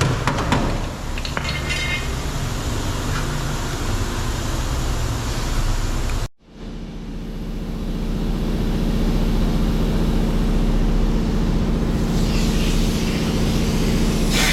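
A few sharp knocks in the first couple of seconds over a steady background noise. The sound cuts out for an instant about six seconds in, then gives way to a steady low mechanical hum.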